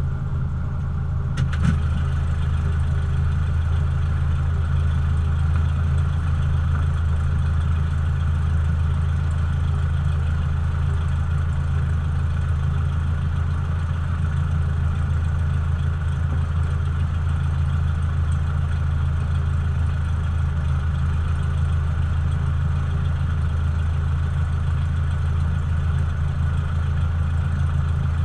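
Cessna 172's piston engine and propeller running with a steady, unchanging drone. A brief click about one and a half seconds in.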